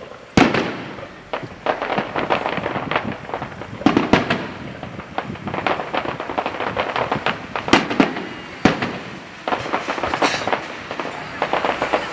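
Aerial fireworks exploding: a rapid run of loud bangs with dense crackling between them, the biggest bangs about half a second in, at about four seconds, and twice more past the middle.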